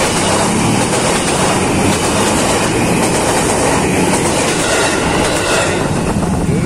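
Electric commuter train passing at close range over a level crossing, its wheels running loudly on the rails. The noise falls away near the end as the last car goes by.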